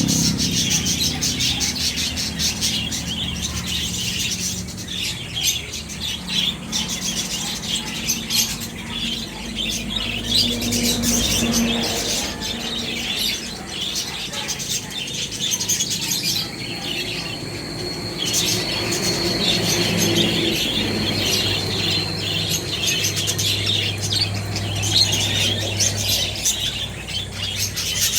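Lovebirds chirping and squawking continuously, a dense chatter of rapid high-pitched calls. A steady high whistle holds for several seconds past the middle, under a low hum.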